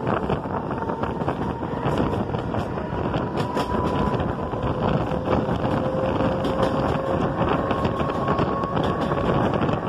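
Two electric suburban local trains passing each other at close range: a steady running rumble and clatter with many quick clicks, wind on the microphone, and a faint electric motor whine slowly rising in pitch.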